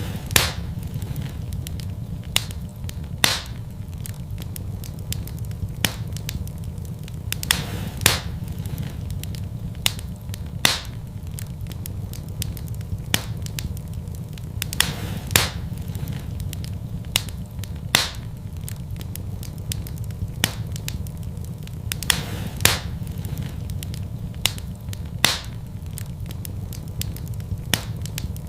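Wood fire burning in a fireplace, crackling: a steady low rumble of flames with sharp, irregular pops and snaps every second or two.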